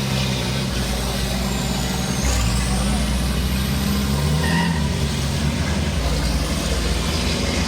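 Heavy racing trucks' diesel engines running, their low engine note shifting in pitch a few times.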